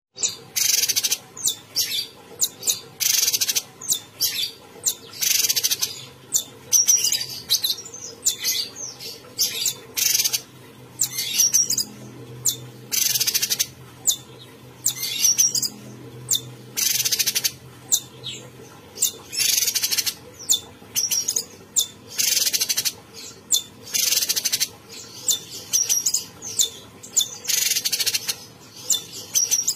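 Cucak cungkok songbird singing vigorously, with rapid, repeated bursts of high chirps and harsh notes mixed with short whistles, about one to two phrases a second.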